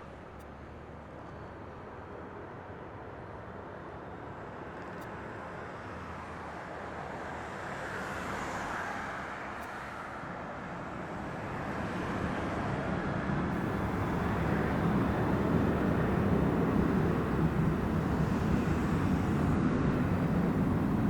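Jet airliner engines, a steady rumble and roar that grows louder through the first half and stays loud to the end.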